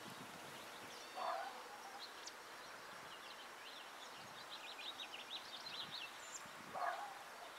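Birds chirping outdoors: a quick run of short high chirps through the middle, over steady faint background noise, with two brief louder calls, one about a second in and one near the end.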